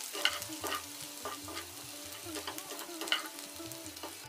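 Crushed ginger and garlic frying in hot oil in a small kadhai, a steady sizzle, as a metal perforated spoon stirs them and scrapes and taps against the pan about twice a second. This is the tadka stage, frying the ginger and garlic until their raw taste goes.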